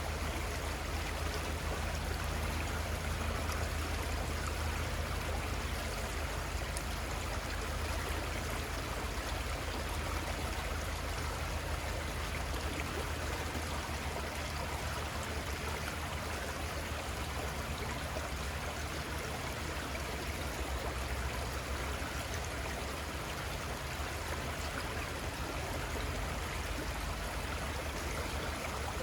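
River water flowing steadily, a continuous rushing and trickling with a low rumble underneath.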